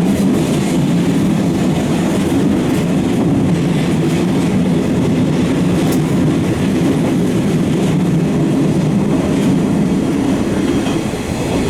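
Eizan Electric Railway train running along the track: a steady rumble of wheels and running gear on the rail, with a few faint clicks from the track.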